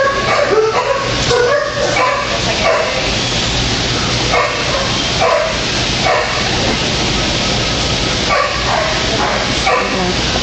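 Belgian Malinois puppies yipping, barking and whining over one another in a continuous string of short high calls, with a steady low hum underneath.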